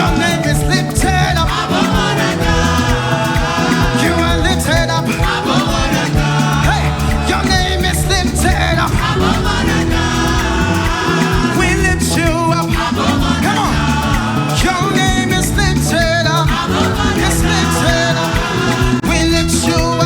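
Live worship band playing an upbeat song with drums and bass, with singing heard at times.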